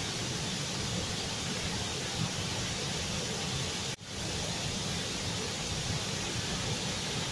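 Large waterfall: a steady, dense rush of falling water that cuts out for an instant about four seconds in.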